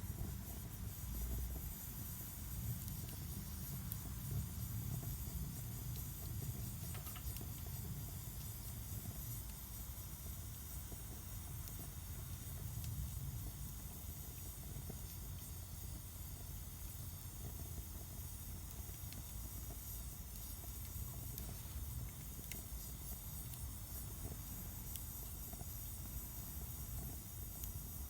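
Wood fire burning in a Solo Stove Campfire stove: a steady low rumble and hiss with a few faint crackles.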